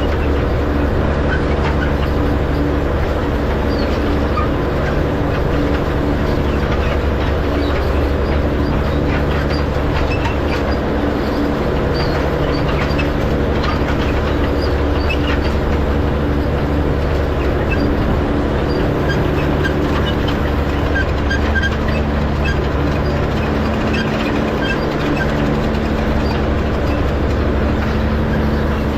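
Tractor engine running steadily as it pulls a hay rake flipping windrows, with light clicking and rattling over it.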